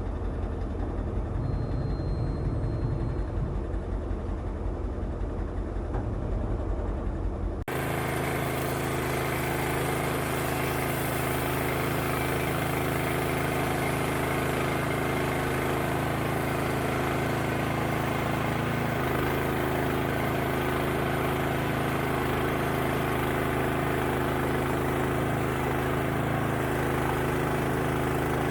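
An engine running steadily, with an abrupt change to a different engine sound about eight seconds in.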